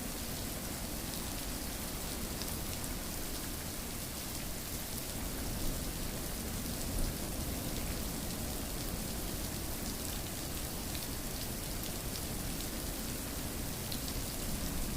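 Steady rain falling, a continuous hiss with many small drop patters, and a couple of slightly louder drop hits about six and seven seconds in.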